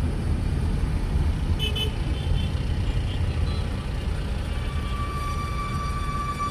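Steady low rumble of city road traffic, with a few short car-horn toots about two seconds in. Near the end a steady high-pitched tone sets in and holds.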